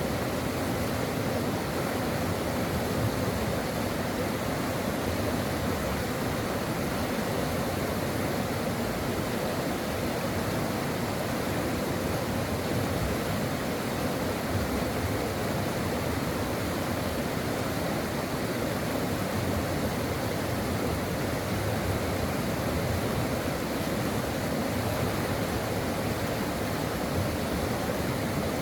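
Stream water flowing over rocks, a steady unbroken rush and babble.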